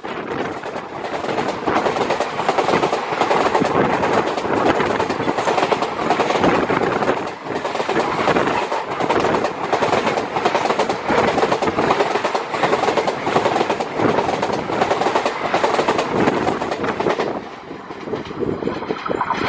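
Passenger coaches of an express train passing at speed close by, the wheels clattering rhythmically over the track. The sound drops away about two seconds before the end as the last coach goes by.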